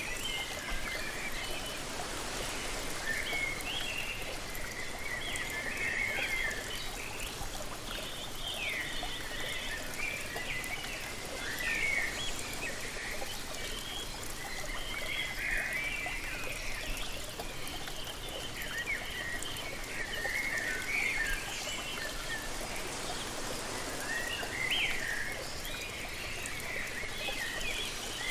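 Steady rush of falling water from a waterfall, with birds singing short, chirping phrases again and again over it.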